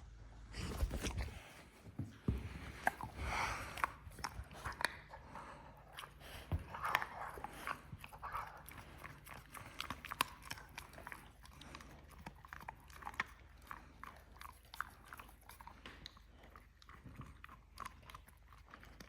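A pit bull chewing a treat, with many quick, wet crunches and clicks of its teeth, busiest in the first several seconds.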